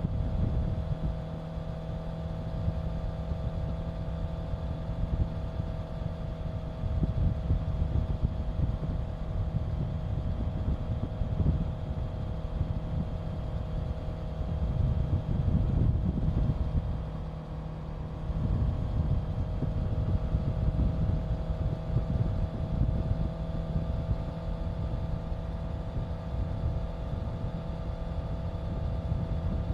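Honda CBR650F's inline-four engine running at a steady cruise, with low wind rumble on the microphone. The sound dips briefly about two-thirds of the way through.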